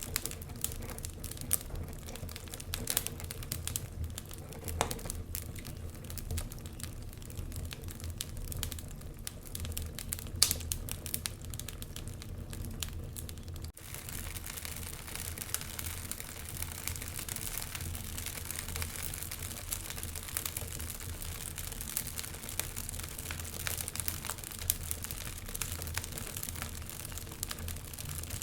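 Wood fire crackling in a fireplace: irregular sharp pops and snaps over a low steady rumble. There is a brief break about halfway through, after which the hiss is more even.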